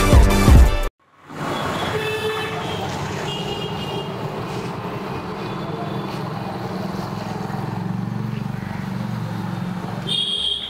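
Intro music ends about a second in, then steady road traffic noise with passing vehicles and short honks of vehicle horns, one shortly after the music and a sharper one near the end.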